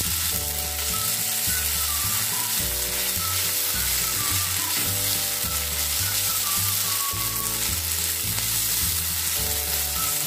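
Sliced onions and ginger-garlic paste sizzling in hot oil in a frying pan while a spatula stirs them, with background music.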